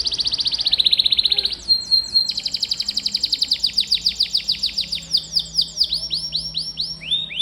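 Domestic canary singing in long rolling trills. A very fast trill gives way about a second and a half in to a brief held whistle, then another long rapid trill. Past the midpoint it slows into separate downward-sweeping notes, and a new phrase starts near the end.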